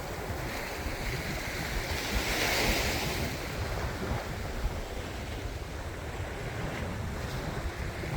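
Sea waves breaking and washing on a beach, with wind rumbling on the microphone; the surf swells into a louder hiss about two to three seconds in.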